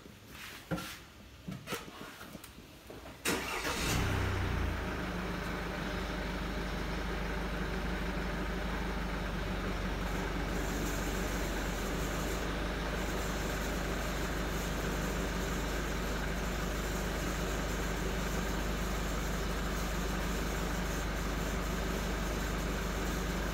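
A 2014–2015 Mercedes-Benz C-Class's engine starting about three seconds in, with a brief rise in revs, then settling into a steady idle. A few light clicks come before the start.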